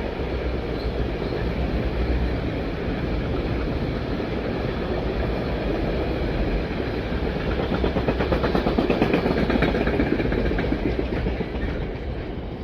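A train passing, a steady rumble of wheels on rails, with a rapid clatter of wheels over rail joints that is loudest about eight to ten seconds in before easing off near the end.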